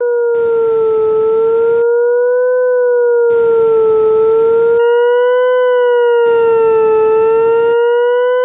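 Synthesized tones from the Desmos graphing calculator: a loud steady tone near 500 Hz with a few higher pure tones above it, the pitch slowly wavering up and down like a siren. About five seconds in, two more high tones join. A hiss switches on and off in turns of about a second and a half.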